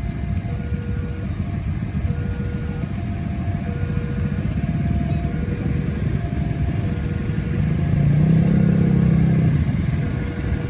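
Railway level-crossing warning alarm sounding a repeating alternating two-tone signal over a steady rumble of road traffic, with a motorcycle engine revving louder about eight seconds in.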